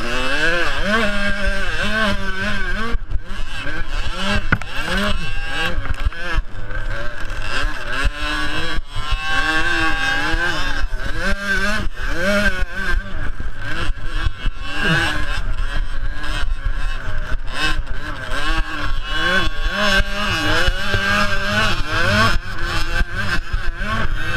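Small two-stroke youth motocross bikes racing, several engines at once, each revving up and dropping back again and again as the riders shift and brake for corners.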